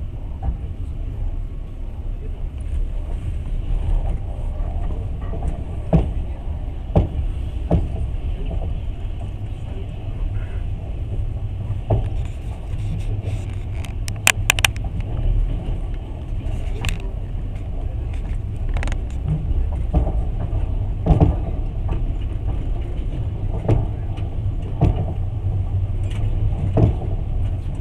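Passenger train running: a steady low rumble of wheels on the track, with scattered knocks and a quick run of sharp clicks about halfway through.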